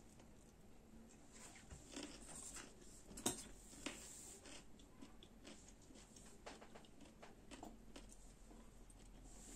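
Quiet kitchen handling sounds: scattered light clicks and taps, with one sharper click a little over three seconds in and another soon after.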